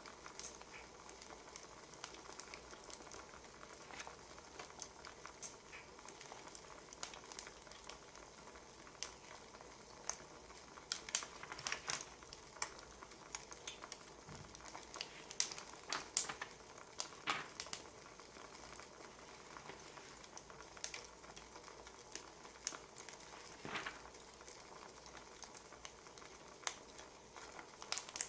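Wood fire crackling: a soft steady hiss with irregular sharp pops and snaps, busiest around the middle.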